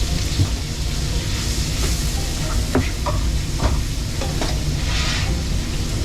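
Food frying with a steady sizzle over a constant low rumble. A few light metal clinks come between about three and four and a half seconds in, and the sizzle swells briefly near the end.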